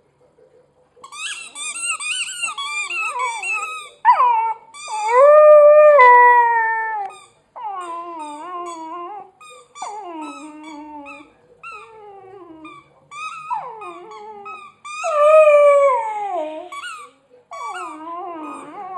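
Labrador puppy howling and whining in a run of drawn-out calls that waver and slide down in pitch, two long loud howls standing out among shorter whines. The howling comes as he chews on a squeaky toy.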